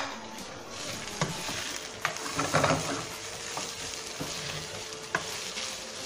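Diced carrots, capsicum and shredded chicken sizzling in hot oil in a frying pan as they are stirred with a spatula, a steady hiss broken by a few sharp clicks of the spatula against the pan.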